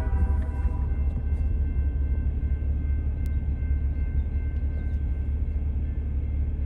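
Steady low rumble of a diesel freight locomotive running as the train approaches, between horn blasts. The last note of the horn chord dies away about a second in.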